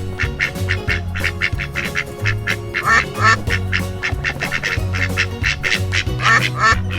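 Music with a steady beat, with a duck quacking over it: two quacks about three seconds in and two more near the end.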